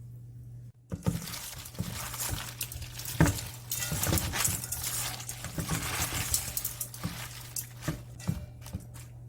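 Dense clattering with glassy clinks, like dishes and glassware knocking together, starting suddenly about a second in and stopping shortly before the end.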